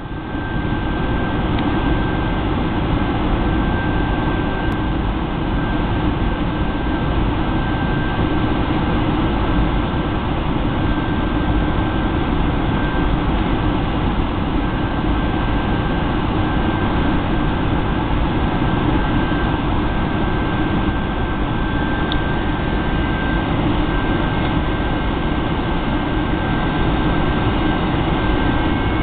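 Steady cabin noise inside a Boeing 757-200 airliner in flight: the loud, even rush of jet engines and airflow, with a constant high whine running through it.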